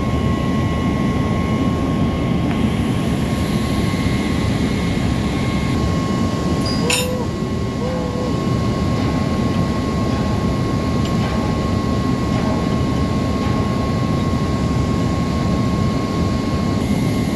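Loud, steady drone of running machinery with a constant high whine over it, and a single sharp metallic click about seven seconds in; the whine stops near the end.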